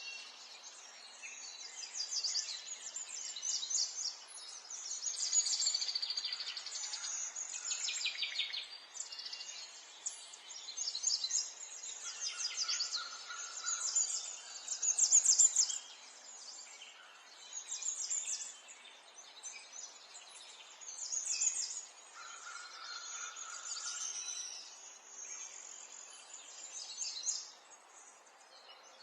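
Small songbirds chirping and trilling in quick, repeated bursts of high notes, over a soft steady background hiss. Twice a lower held note sounds for about a second.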